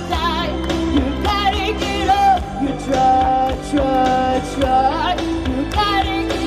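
A woman singing, with held notes and wavering vibrato, over a band with bass, drums and guitar.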